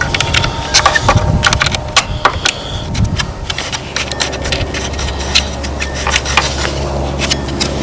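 A wrench clicking and clinking against metal in irregular short taps as it turns a threaded speedometer-cable nut a small fraction of a turn at a time.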